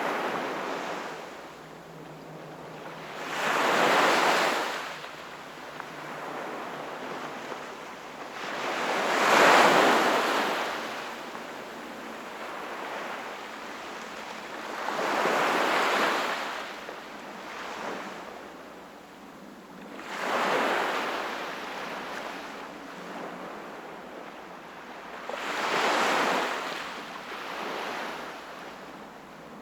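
Ocean waves breaking on a shore, a rush of surf swelling and fading about every five to six seconds, with a softer steady wash between.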